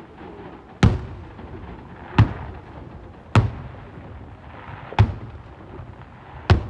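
Fireworks shells bursting in a display: five sharp booms about a second and a half apart.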